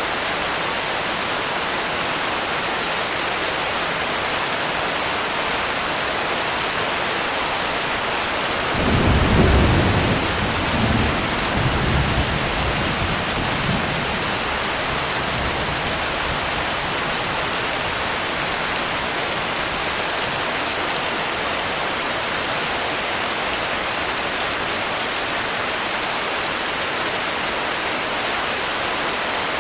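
Steady heavy rainfall hissing throughout, with a roll of thunder rumbling in about a third of the way through and dying away over several seconds.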